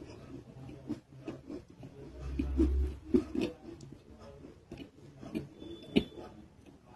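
Close-up chewing and biting of a soft clay-paste (nakumatt) roll: scattered soft clicks and wet mouth sounds with hardly any crunch, and a low thump about two seconds in.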